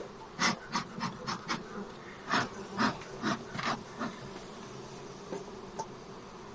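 A honeybee colony buzzing steadily at an open hive, with a quick run of knocks and scrapes of wooden hive parts being handled during the first four seconds.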